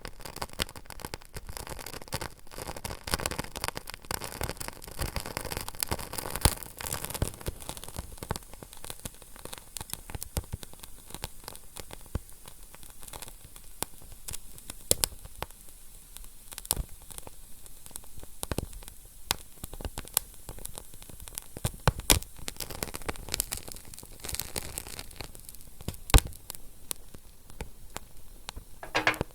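Fire crackling: a steady hiss with many irregular sharp pops and snaps.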